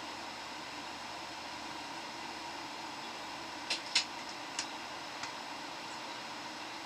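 Steady cabin noise inside a Boeing 737 airliner: an even rush of engine and air-conditioning sound with a faint steady hum. A few short sharp clicks come about four seconds in.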